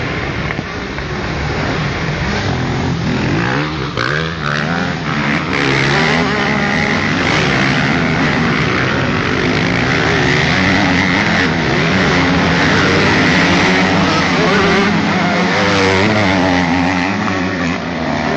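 Several motocross bikes racing by, their engines revving up and down at different pitches at once. The engines grow louder about five seconds in and ease off a little near the end.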